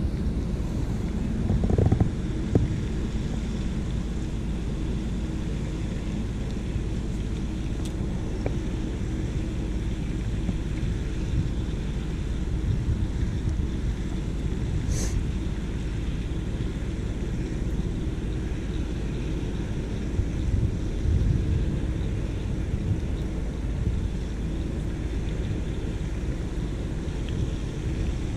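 Wind buffeting the microphone in a steady low rumble that swells and eases, with one brief sharp click about halfway through.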